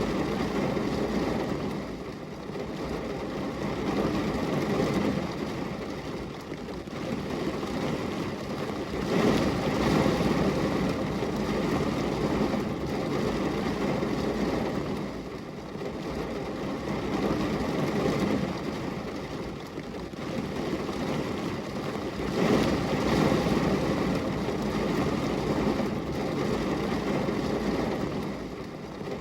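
Steady rain falling on a glass window, an even hiss and patter fullest in the lower range, swelling and easing every four to five seconds.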